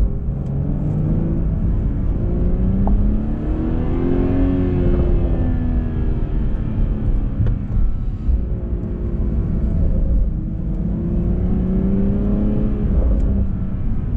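Car engine running and accelerating over a steady low road rumble, its pitch climbing twice and easing back down.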